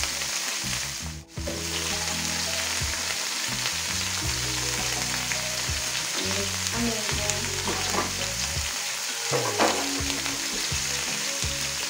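Broccoli florets and sliced red onion frying in hot oil in a pan: a steady sizzle, which cuts out briefly about a second in.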